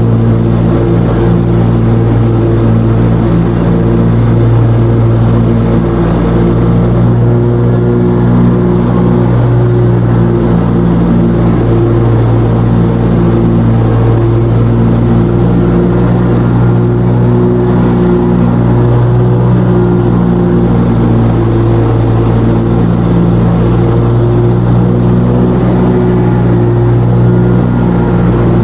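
Lawn mower engine running steadily at constant speed while mowing.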